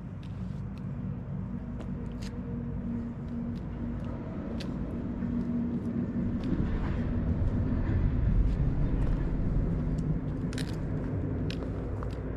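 A motor vehicle's engine running, its low hum swelling to a peak about eight seconds in and then easing off as it passes, with scattered light clicks.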